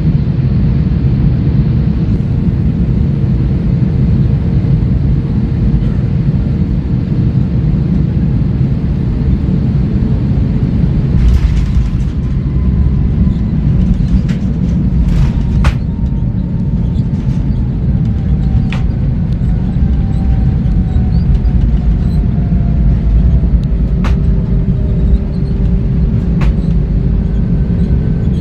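Steady low rumble of an airliner's cabin noise. About halfway through, a faint whine slowly falls in pitch, and a scattering of sharp clicks sounds over the second half.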